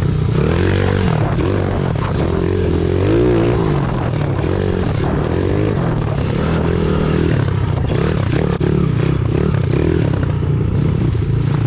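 Pit bike engine running hard while riding, its pitch rising and falling as the throttle is opened and closed.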